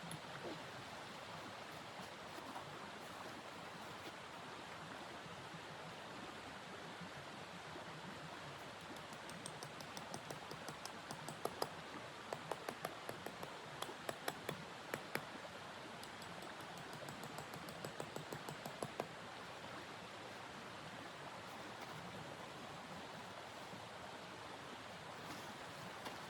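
Steady rushing wind noise of a snowstorm, with a spell of small, sharp crackles and clicks in the middle.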